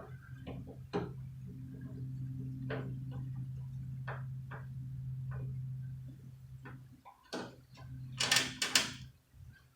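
Scattered light clicks and taps of hand tools and metal parts being handled while a truck door is taken apart, over a steady low hum that stops about seven seconds in. A few louder clicks and scrapes come near the end.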